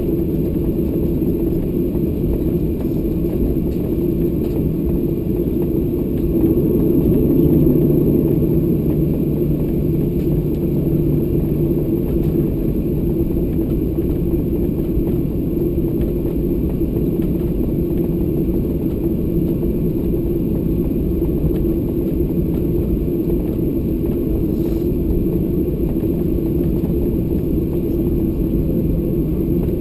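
Steady low rumble of a Boeing 737-800 with CFM56 engines, heard from inside the passenger cabin, swelling slightly a few seconds in.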